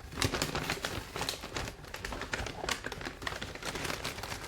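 Takeaway food delivery packaging being handled and opened, a run of irregular crinkling, rustling and clicking.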